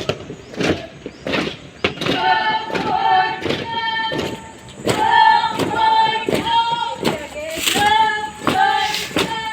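Drill boots stamping on the ground in a steady marching rhythm, while voices call out long, drawn-out drill commands or counts over the stamps.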